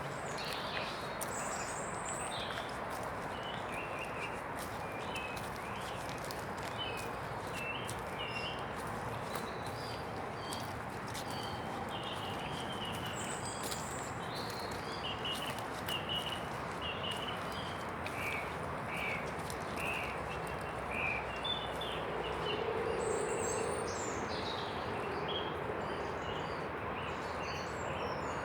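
Steady rushing noise of wind through woodland trees, with small birds chirping in short, repeated calls throughout and a few faint clicks.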